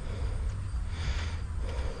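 A person breathing heavily in short, repeated breaths over a steady low rumble.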